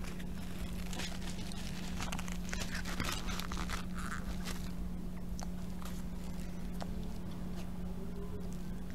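Close-miked chewing with small wet mouth clicks, and a paper napkin rustling against the lips about four seconds in, over a steady low hum.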